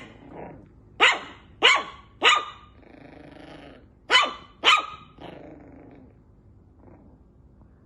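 Shih Tzu barking: three sharp barks about a second in, two more around four seconds in, with lower growling between and after them.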